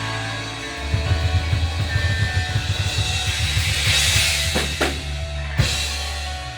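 Live rock band playing a song's closing bars: a rapid drum fill over a held bass and guitar chord, with a crash hit about five and a half seconds in and the chord ringing on.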